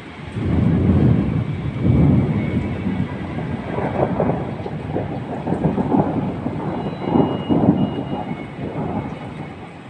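Thunder rumbling: a loud rolling peal that starts about half a second in, swells twice in the first two seconds, rumbles on in uneven surges and fades near the end.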